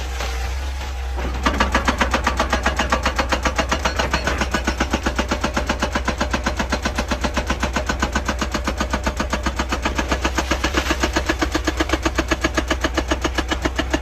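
Hydraulic rock breaker on an excavator hammering rock: after a second or so of the engine running, rapid even blows start, about six a second, over the excavator's steady engine hum.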